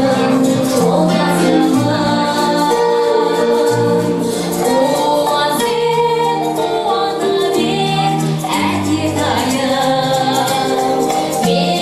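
A woman singing a song over instrumental accompaniment with a bass line and a steady beat.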